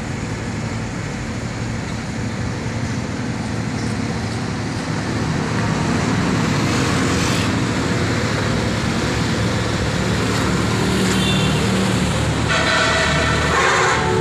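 Steady road traffic noise with vehicle engines running, and a vehicle horn sounding for about a second and a half near the end.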